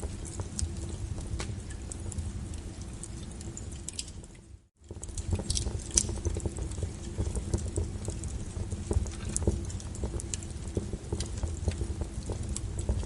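Wood fire crackling, with irregular snaps and pops over a low steady rumble. The sound fades out to silence for a moment a little under five seconds in, then comes back.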